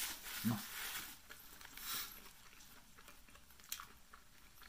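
A person chewing a mouthful of bacon burger, a soft, wet crackle of chewing that is busiest in the first two seconds and then quieter, with a brief low hum about half a second in.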